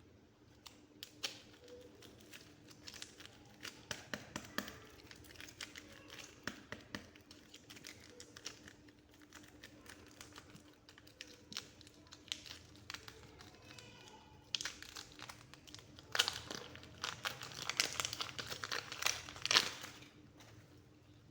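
Soft clay being handled, pressed and squished by hand close to the microphone, with many small sticky clicks and crackles. The handling grows denser and louder for a few seconds about three-quarters of the way through.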